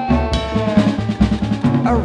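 Blues band playing an instrumental passage: a quick run of snare and drum hits, like a drum roll, under held melody notes that sag slowly in pitch.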